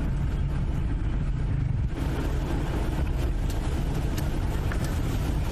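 Steady low rumble of a parked car's engine idling, picked up by a CCTV camera's microphone, with a few light clicks in the second half.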